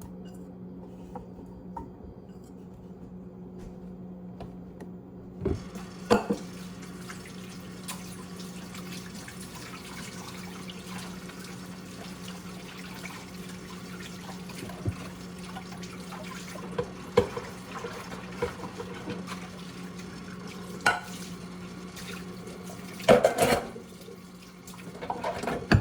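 Kitchen tap turned on about five and a half seconds in and left running, with dishes and utensils clinking now and then over a steady low hum.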